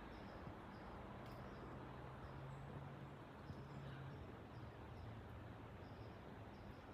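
Faint, steady rumble of a Boeing 777 jetliner flying high overhead, with short high chirps repeating in the background.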